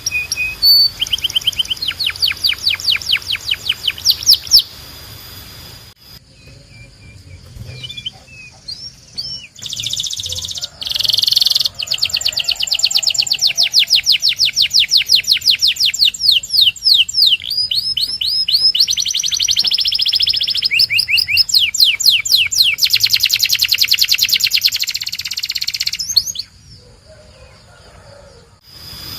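Belgian canary singing long, fast trills of rapidly repeated high notes. The song drops to a few scattered quieter notes for several seconds after the opening trill, then runs on in trills before a short lull near the end.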